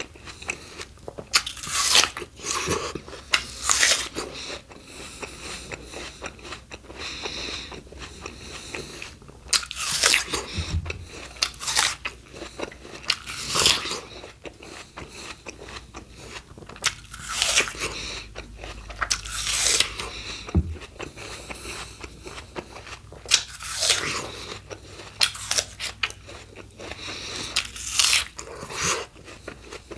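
Close-miked biting and chewing of crisp raw fruit and vegetables. Sharp, wet crunches come every second or few, bunched in clusters, with quieter chewing between them.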